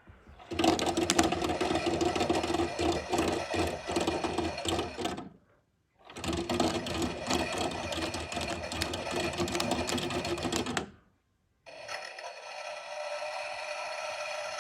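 A small motor-driven mechanism running with a rapid clicking rattle, in two spells of about five seconds that each cut off abruptly. Near the end it gives way to a steady thin hiss.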